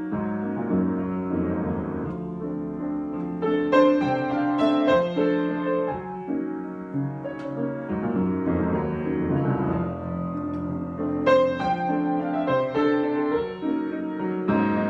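Solo piano improvisation: held chords in the middle register, with brighter runs of struck melody notes about four seconds in and again past the eleven-second mark.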